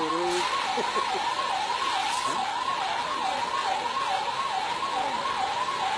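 Fire truck siren sounding a fast up-and-down warble, about two and a half swings a second.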